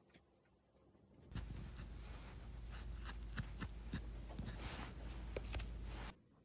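Wood-carving chisel cutting into wood: a run of short scrapes and sharp clicks over a low hum, starting about a second in and stopping abruptly near the end.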